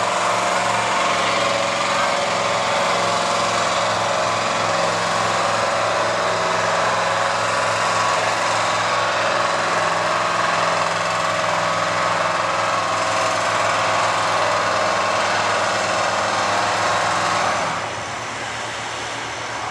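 Gas-engined Chevrolet 4x4 pickup running flat out at steady high revs as it pulls a weight sled. The engine noise drops off sharply near the end.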